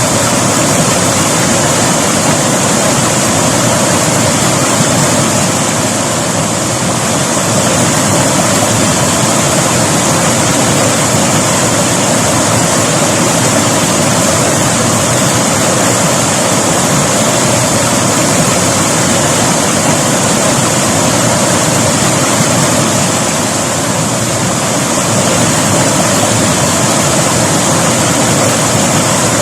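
River water rushing and splashing in a steady, loud, even rush, easing slightly twice.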